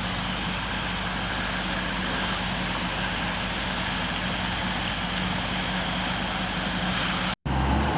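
Steady motor hum over an even rushing hiss, broken by a brief dropout near the end.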